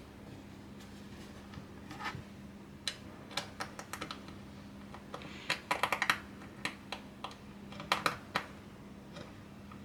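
Irregular small clicks and taps of hard parts being handled and fitted together. A quick run of rapid clicks comes about halfway through and another short cluster near the end, over a steady low hum.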